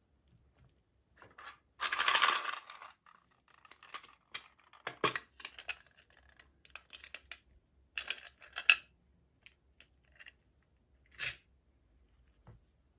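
Unboxing of small toy packaging: a short crinkling tear of packaging about two seconds in, then a run of light clicks and taps from small plastic pieces being handled.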